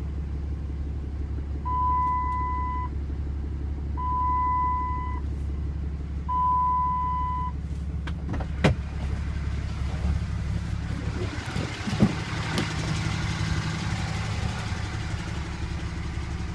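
The 2007 Dodge Ram's turbo diesel idling with a steady low hum. Three long, even beeps sound about two seconds apart in the first half, and two sharp clicks come later, a few seconds apart.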